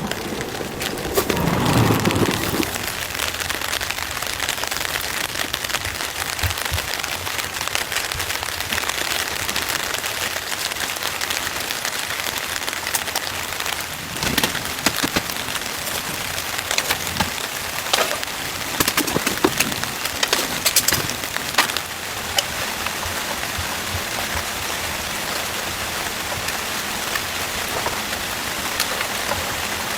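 Heavy rain falling steadily on the shelter overhead, a constant hiss with many sharp individual drop hits. There is a short, louder low sound about two seconds in.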